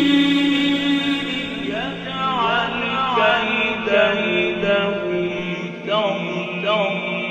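Background vocal music: a voice chanting in ornamented, wavering melodic runs over a steady held drone.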